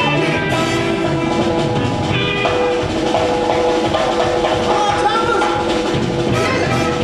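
Live band music: a drum kit keeps time under held pitched instrument lines and bass, playing on without a break.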